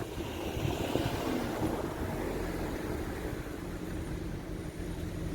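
Steady low rumble of wind on the microphone mixed with a vehicle engine hum.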